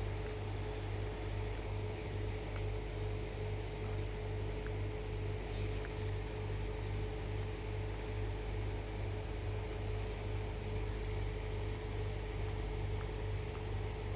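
A steady machine-like hum with one constant mid-pitched tone over a low pulsing drone.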